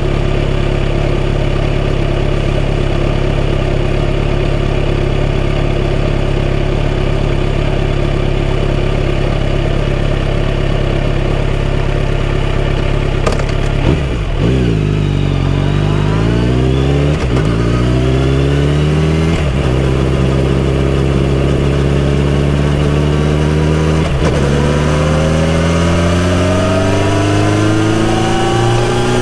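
Kawasaki Z900RS's 948 cc inline-four engine through a full-system exhaust, running at a steady pitch. About halfway through, the revs dip and then climb again and again, with a break at each upshift as the bike accelerates through the gears.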